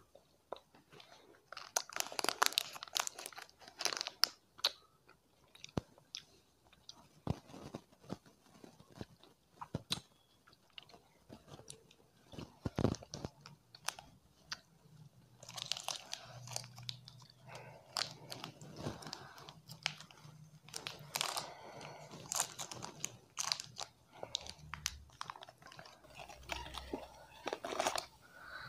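Close-miked chewing of chocolate, with sharp crunches and bites coming in clusters: a dense run near the start and a longer one through the second half, sparser chewing in between.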